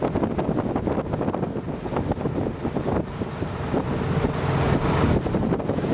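Wind buffeting the microphone over the steady rumble of a passenger ferry under way.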